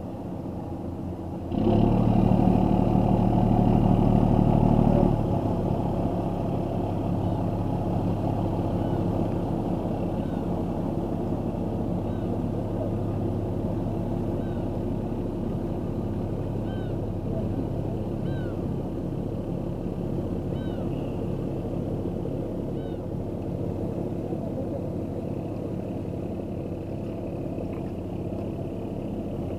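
An engine running steadily nearby, louder for about three seconds near the start, then settling to an even, slowly fading drone.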